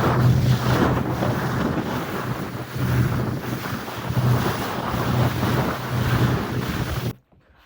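Wind buffeting the microphone on a small motor boat under way, with a low steady engine hum and water rushing past the hull. It cuts off suddenly near the end.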